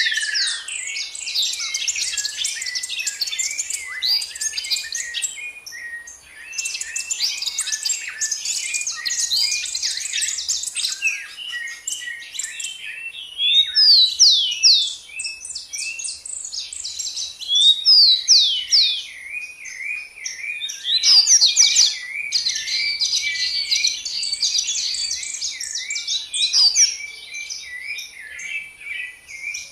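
Several songbirds singing at once: dense, rapid twittering chirps in waves, with louder clear downward-slurred whistles breaking in now and then, over a steady thin high-pitched whine.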